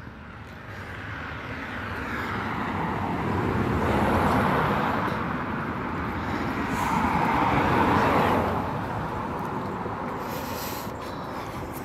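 Vehicles passing one after another: a rushing noise swells to a peak about four seconds in, dips, swells again about eight seconds in, then fades away.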